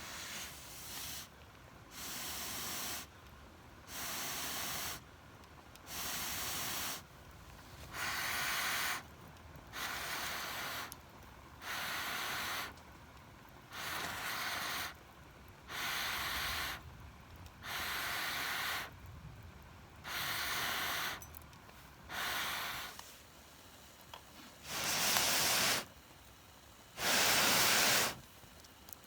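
A person blowing out air in long, even puffs, about one every two seconds, with the last few louder and longer.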